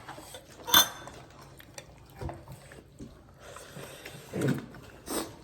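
Plates and cutlery clinking during a meal, with one sharp, loud clink about a second in and a few lighter knocks after it.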